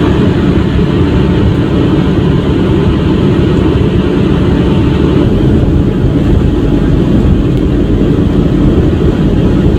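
Steady low rumble of a truck's engine and tyre noise heard inside the cab while driving on the highway, with no change in pitch or level.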